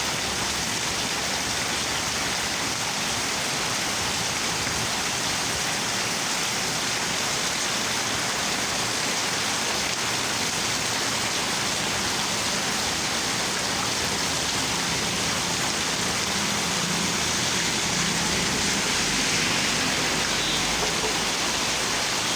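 Steady rainfall, an even hiss of rain hitting surfaces.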